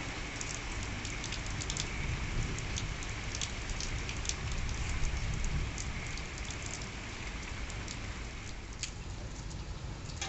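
Steady rain falling, with scattered individual drops ticking sharply on a surface. The rain eases slightly near the end.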